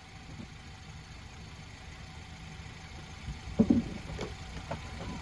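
A vehicle engine idling faintly as a steady low rumble, with a few short knocks and clicks about three and a half to four seconds in.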